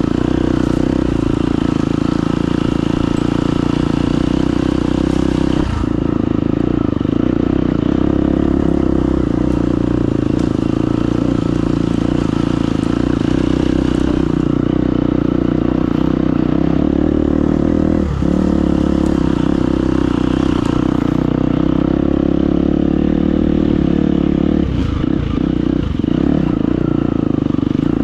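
Husqvarna FE250 single-cylinder four-stroke enduro motorcycle engine running steadily under throttle, with a few brief dips in revs, one about six seconds in, one around eighteen seconds and two close together near the end.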